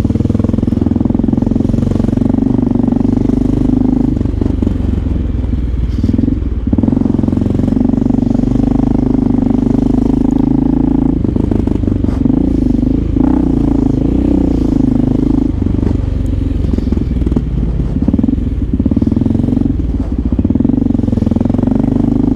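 Motorcycle engine running under way, its steady drone heard from the rider's seat, with the pitch shifting a little now and then as the throttle changes.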